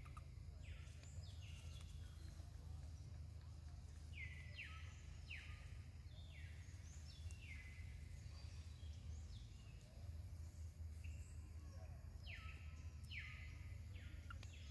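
A bird calling over and over, faint: short calls that sweep down in pitch, coming in pairs and small groups every second or so, over a steady low rumble of background noise.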